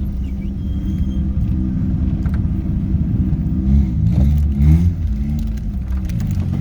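Car engine running with a deep, steady note, revved up and down briefly about midway through.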